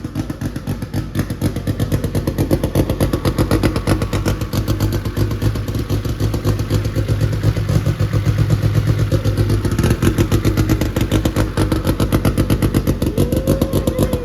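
Honda CRX engine running on freshly added E85 fuel. It gives a steady, rapid pulsing beat with a low hum throughout.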